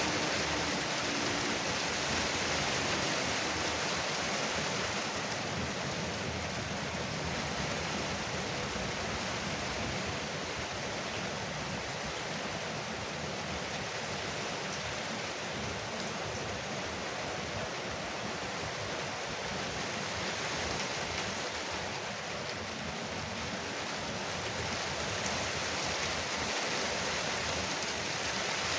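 Rain pouring steadily on a veranda roof, an even hiss and patter that swells and eases slightly.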